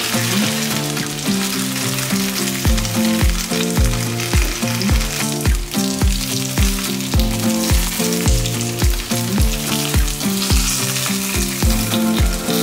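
Starch-coated tofu shallow-frying in oil in a pan, a steady sizzle as the pieces brown over medium heat. Background music with a steady beat plays over it.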